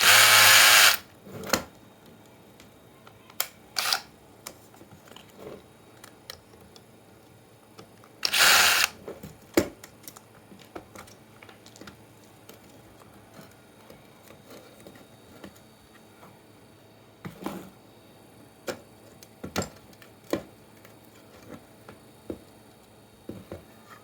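Two short runs of a small power drill, each about a second long: one at the start and one about eight seconds in. Scattered clicks and knocks of small parts being handled come in between and after.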